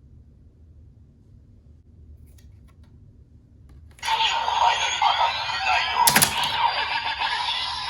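CSM Decadriver ver.2 toy belt, quiet with a few faint clicks, then about four seconds in its speaker starts playing its recorded electronic effects and voice call. A sharp click comes about six seconds in.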